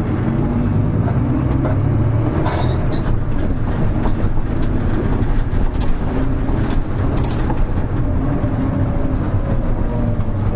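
Hino Rainbow HR low-floor city bus (KL-HR1JNEE) with its diesel engine running under way, heard from inside the cabin. Scattered clicks and rattles sound over the steady engine note.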